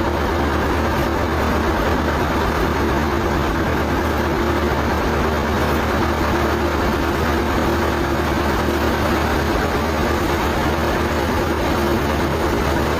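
Sawmill machinery running with a steady, unbroken low drone and a faint held tone above it.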